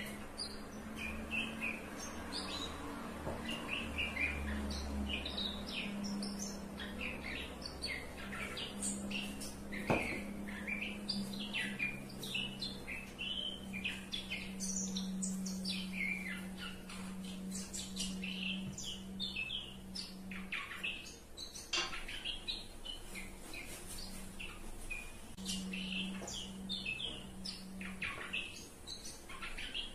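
Small birds chirping over and over, with a steady low hum underneath.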